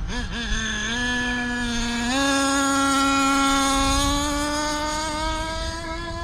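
Nitro two-stroke .26 engine of a 1/8-scale RC monster truck at full throttle on a speed run: the high, buzzing note climbs in two quick steps in the first two seconds, then holds high and slowly rises further, fading over the last couple of seconds as the truck pulls away.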